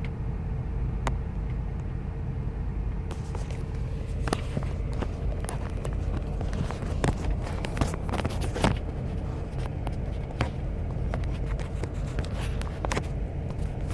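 2000 Ford Expedition's 5.4-litre V8 idling rough, a steady low rumble. Through the middle there is a run of sharp clicks and knocks, the loudest one a little past the midpoint.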